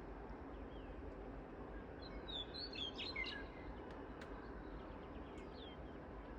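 Birds chirping over a steady outdoor background hiss. A cluster of short chirps comes about two to three and a half seconds in, with a few single chirps after.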